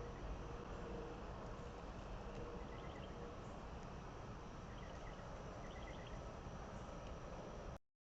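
Faint evening outdoor ambience: steady background noise with small clusters of short, high chirps every second or two. It cuts off abruptly to silence near the end.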